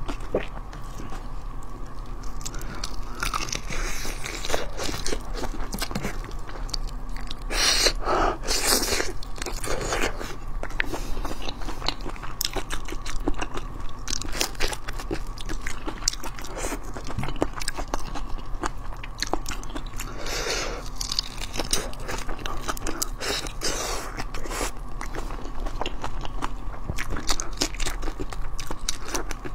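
Close-miked eating of whole marinated raw shrimp: shells cracking and crunching between the teeth and wet chewing, a dense run of small clicks and crackles with several louder bites scattered through, for example about 8 and 20 seconds in. A faint steady hum sits underneath.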